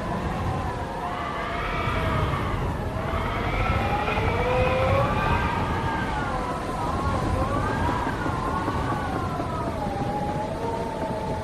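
Wind howling, its pitch rising and falling in slow, wavering swells over a steady low rumble.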